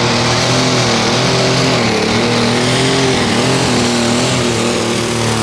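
Competition pulling tractor's engine running hard and loud, its pitch wavering slightly up and down.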